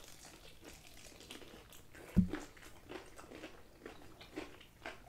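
Crispy breaded fried chicken wings being bitten into and chewed, with scattered small crunches of the fried coating. A single brief low thump, the loudest sound, comes about two seconds in.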